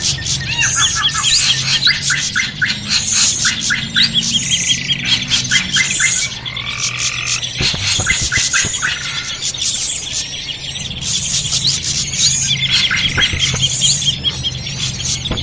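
Bird-lure recording of a noisy crowd of small birds calling all at once: a dense, continuous chatter of overlapping chirps, rapid trills and high squeaky notes.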